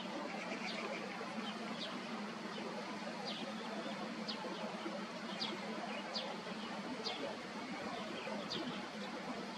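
Small birds chirping, short high notes falling in pitch about once a second, over a steady faint background hum.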